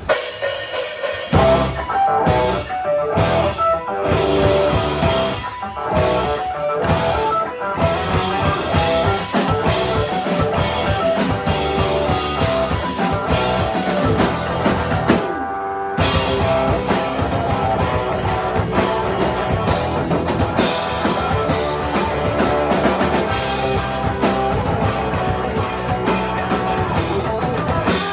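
Rock band playing live, with guitar and drum kit. Separate stop-start hits open the passage before the full band comes in about eight seconds in, and there is a short break a little past halfway.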